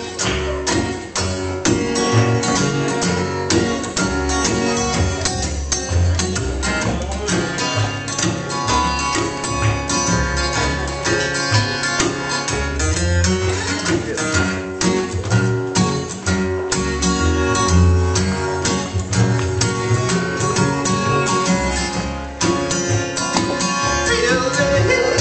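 Live bluegrass instrumental break with no singing: acoustic guitar picking over a walking bass line.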